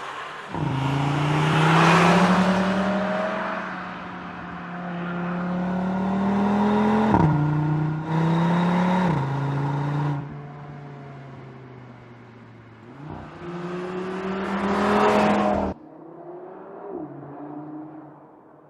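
Audi RS3's turbocharged 2.5-litre five-cylinder engine accelerating hard, its pitch climbing through the revs. Quick upshifts drop the pitch about seven and nine seconds in. A second pull starts about thirteen seconds in and cuts off abruptly, leaving a quieter engine note.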